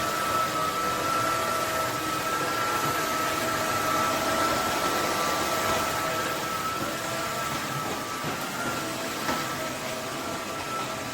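Roborock F25 cordless wet-dry vacuum running steadily: a rushing suction noise with a constant high motor whine.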